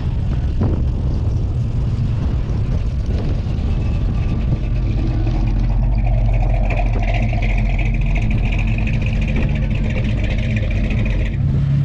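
Classic car engine rumbling steadily as it drives in at low speed. A higher steady whine joins from about six seconds in and drops away near the end.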